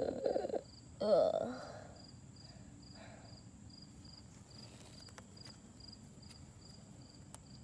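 A child's short groaning cry, twice in the first two seconds, then a cricket chirping steadily and faintly, about three high chirps a second.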